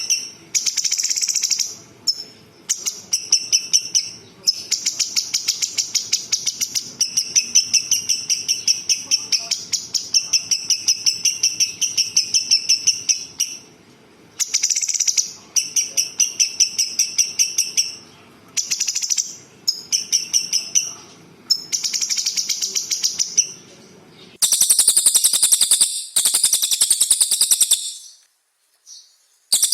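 Songbird song: rapid rattling trills in bursts of one to three seconds with short gaps, and a louder, shriller trill near the end.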